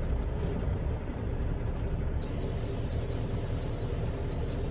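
Semi truck's engine running as a steady low rumble. About two seconds in, a short high beep starts, repeating about every 0.7 seconds.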